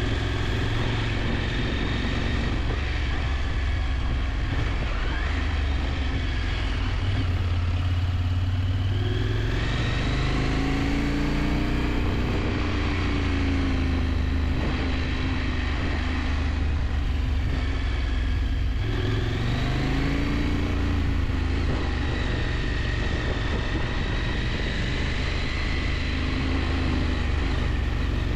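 KTM 890 Adventure's parallel-twin engine running under way, its pitch rising as it revs harder twice and then settling, over a steady rush of riding noise.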